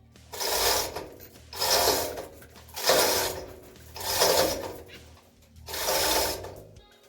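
Five slow, even rasping strokes of a hand tool worked back and forth, about one every 1.2 seconds.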